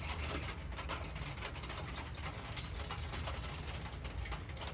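Rain: an irregular patter of drops ticking over a steady low rumble.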